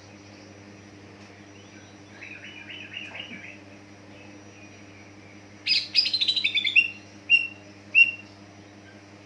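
Green leafbird (cucak ijo) singing: a soft twittering chatter, then a loud rapid run of falling notes past the middle, followed by two short separate calls. A steady low hum runs underneath.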